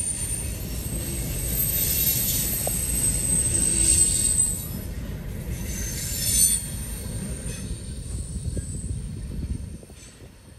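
CSX freight train's covered hopper cars rolling past with a steady rumble, the wheels squealing high-pitched on and off. The rumble falls away suddenly near the end as the last car goes by.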